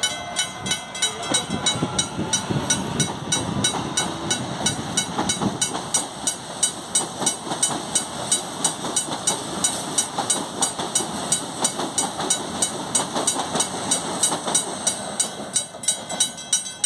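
Electric commuter train running through the station, its wheels and motors rumbling, with a faintly rising motor tone in the first few seconds. Over the rumble, a sharp, ringing strike repeats evenly about three times a second.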